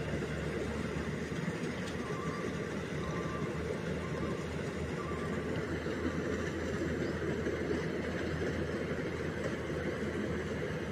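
Rice combine harvester running steadily as it cuts and threshes rice, a continuous mechanical drone of engine and threshing drum.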